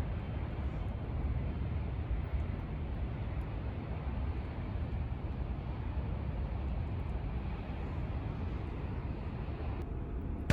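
Steady outdoor background noise: an even low rumble with hiss and no distinct events.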